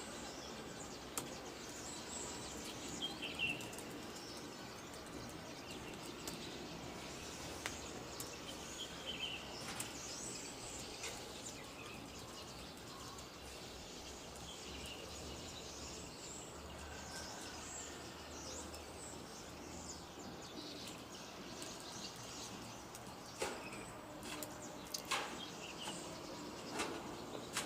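Steady outdoor background noise with scattered short bird chirps and tweets. A few sharp clicks stand out near the end.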